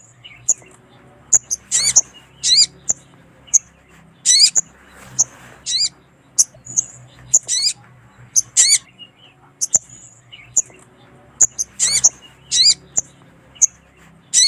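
Sogon (sogok ontong) bird calling: short high chirps and sharp downward-sweeping notes repeated in irregular bursts, one to three a second. This is a female sogon's call of the kind used to lure males.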